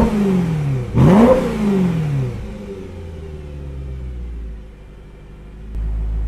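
BMW E92 M3's 4.0-litre V8 with a Borla ATAK exhaust, no venturi fitted, blipped in quick free revs: one rev falling away at the start and a second sharp rev about a second in, each dropping back to idle. It then settles into a steady idle, which turns louder near the end.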